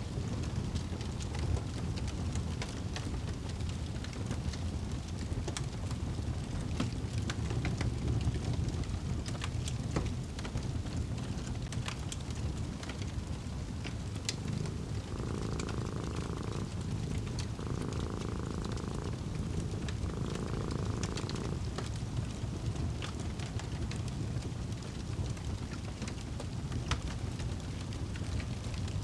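A cat purring steadily under a crackling wood fire, with sharp pops scattered throughout. A little past halfway, three short soft swells come one after another.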